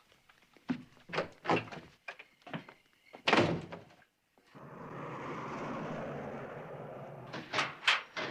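A run of sharp knocks and thuds, the loudest about three seconds in, then a few seconds of steady noise and two or three more knocks near the end.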